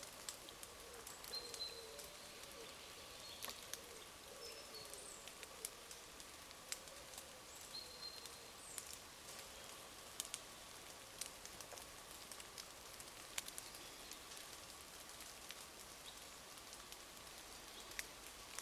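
Light rain in a beech wood: scattered raindrop ticks on leaves over a faint steady patter.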